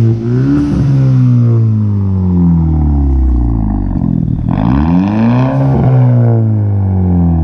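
Straight-piped 2018 Hyundai Elantra Sport's 1.6-litre turbo four-cylinder being revved with a turbo hose disconnected so the spool can be heard. Revs fall, climb again about four and a half seconds in with a hissing rush of air, then fall once more.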